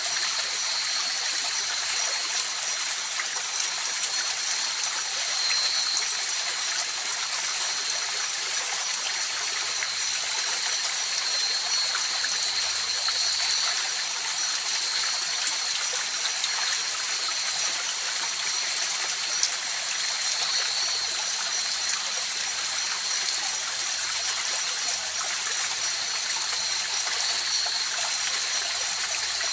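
River water rushing and babbling steadily over the rocks. Above it runs a steady high-pitched trill, a chorus of night insects.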